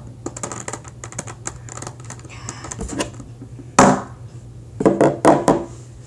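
Small light plastic clicks, then one loud knock a little before four seconds in and three quick knocks about a second later: a small hammer tapping on a Rubik's Cube's plastic pieces.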